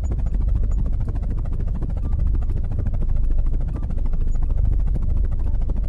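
Helicopter rotor chopping steadily, a fast, even beat of blade thumps that is heaviest in the low end. It cuts off abruptly at the end.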